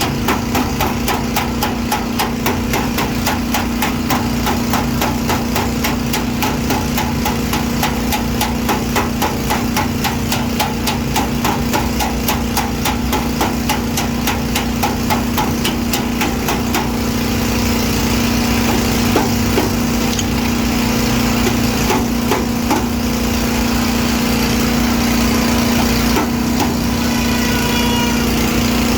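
A hammer tapping out dents in a car's sheet-metal body panel with rapid, even strikes, several a second, thinning out about two-thirds of the way through. A steady machine hum runs underneath.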